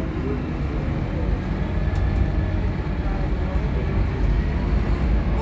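Scania Enviro300 bus's diesel engine and running gear droning steadily, heard from inside the passenger cabin while under way, with a couple of brief rattles about two seconds in.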